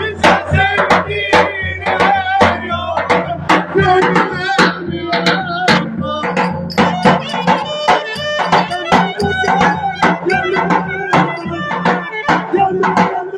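Turkish folk dance music played by a band: steady, evenly spaced drum beats under a wavering melody line.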